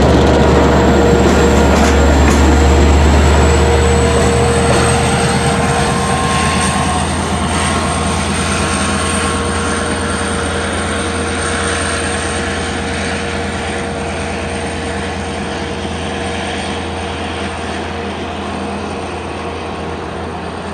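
Long Island Rail Road train running past with a steady low drone, a few sharp wheel clicks over rail joints in the first couple of seconds, then slowly fading as it moves away.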